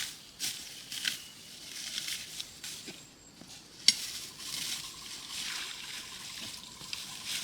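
Water splashing and sloshing in irregular strokes, as from moving through or working in a shallow stream. A single sharp knock about four seconds in is the loudest sound.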